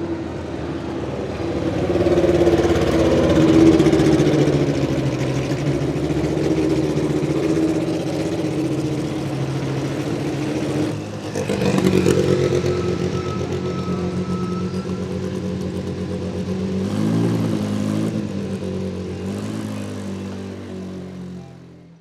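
Historic Group C race cars' engines passing at speed, loud: one swells past in the first few seconds, another comes through about halfway, and near the end the engine pitch steps up and down with gear changes before fading away.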